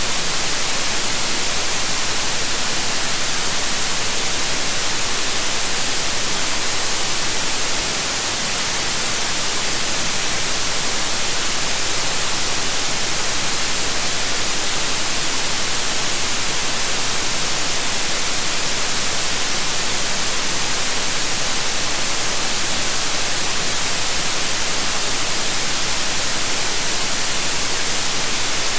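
Steady white noise: an even, constant 'shh' hiss with no tones or events in it. It dips slightly in level about eight seconds in and recovers over a couple of seconds.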